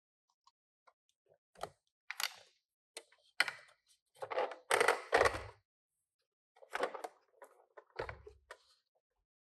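Hands handling Tomica die-cast minicars and their packaging: irregular clicks, rustles and scrapes, with a soft thump about five seconds in and another near eight seconds.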